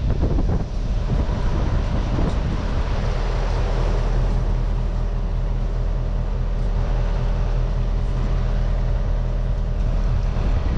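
An engine idling steadily, a constant low drone with no change in speed.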